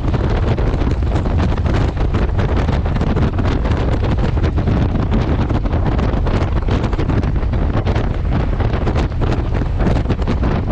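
Heavy wind buffeting the microphone on a moving motorcycle, a steady low rumble of wind and road noise with the bike's running engine underneath.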